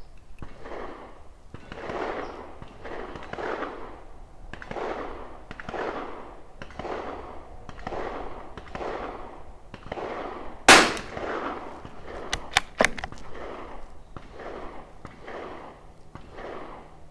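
A single .22 LR rimfire shot from a Tikka T1x bolt-action rifle about two-thirds of the way in, followed a second or two later by a few sharp clicks. Under it a whooshing noise swells and fades about once a second.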